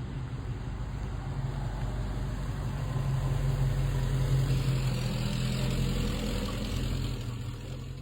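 1974 Dodge Dart Sport's 318 V8 idling steadily, its note swelling slightly about halfway through before settling again.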